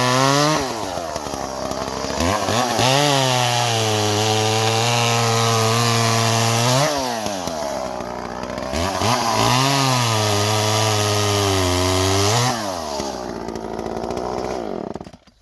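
Two-stroke chainsaw working through firewood logs. The engine speed dips and climbs again several times as the chain works through the wood. Near the end it winds down and stops.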